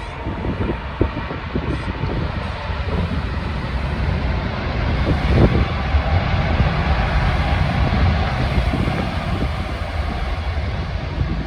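Jet airliner engine noise, a steady rush that swells about midway and eases near the end, with wind buffeting the microphone.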